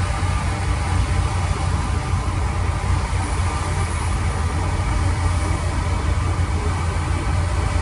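Heavy construction machine's diesel engine running steadily with a deep low rumble.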